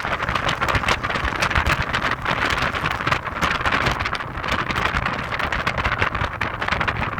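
Wind buffeting hard on the microphone of a moving Audi TT, a rough, fluttering rush over the car's road noise.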